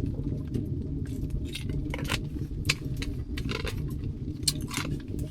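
Irregular light clicks and taps, a few sharper ones about two and a half and four and a half seconds in, over a steady low rumble.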